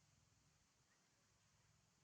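Near silence: faint room tone with low hum.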